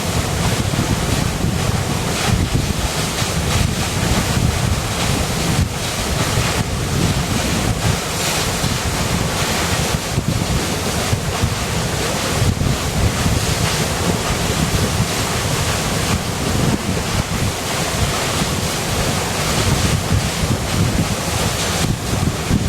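A river flowing: a steady rushing of water with a deep, low rumble underneath.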